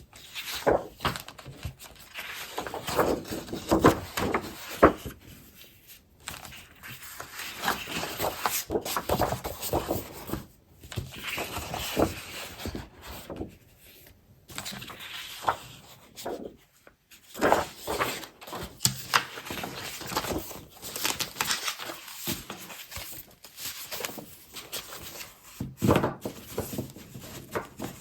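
Scrapbooking paper and craft supplies being handled and sorted: irregular rustling and crinkling of paper and packaging, with scattered light taps and clicks.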